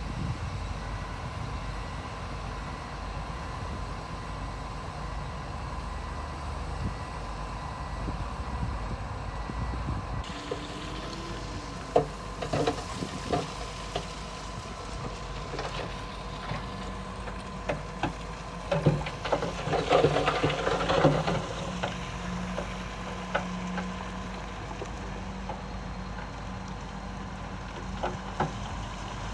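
Diesel engine of heavy earthmoving machinery running steadily. From about twelve seconds in, repeated knocks and a rough clatter of stone rise over it, loudest around twenty seconds, while the engine note goes up under load.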